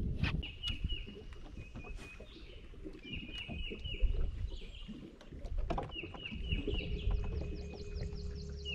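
Songbirds chirping in short repeated runs, with a quicker, higher series near the end. Scattered knocks of handling on a boat deck, and a steady low hum that starts about two-thirds of the way through.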